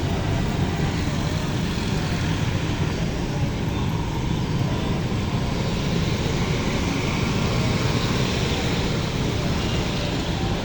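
Steady road traffic noise: vehicle engines running and passing without a break.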